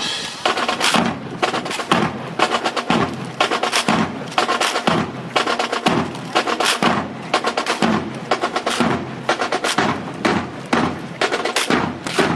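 A drill team's rifles being slapped, caught and struck in near unison: a dense run of sharp wooden clacks, several a second, in uneven groups.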